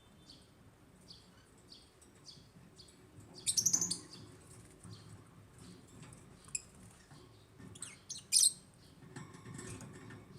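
African lovebirds chirping: soft, short high chirps repeat steadily, broken twice by loud bursts of rapid chirps, once a few seconds in and once near the end.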